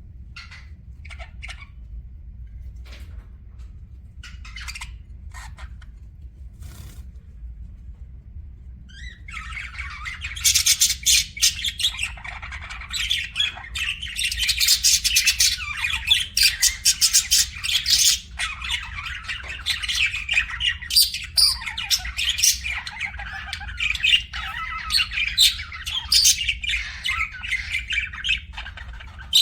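Budgerigars chirping: a few short, scattered chirps, then from about nine seconds in a dense, unbroken chatter of rapid warbling calls, over a steady low hum.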